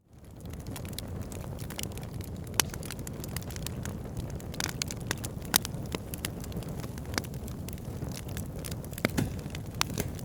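Wood fire burning in a fireplace: a steady low rumble of flames with scattered sharp crackles and pops, the loudest about two and a half and five and a half seconds in. It fades back in from a brief gap at the start.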